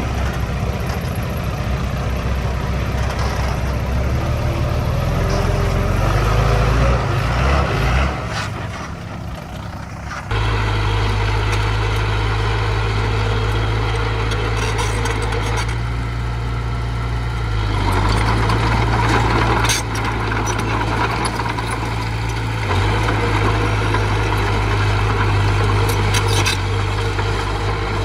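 Diesel engine of earthmoving machinery running steadily. It drops for a couple of seconds about a third of the way in, then comes back louder and holds.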